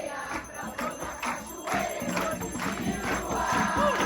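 A group singing an Umbanda ponto for Xangô in call-and-response, with hand percussion keeping a steady beat.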